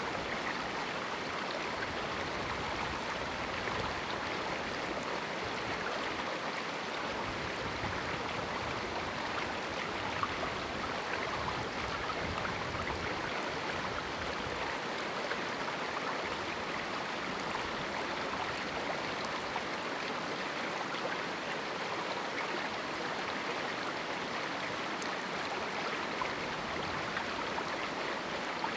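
River water flowing and splashing over rocks in a small canyon: a steady, unbroken rush.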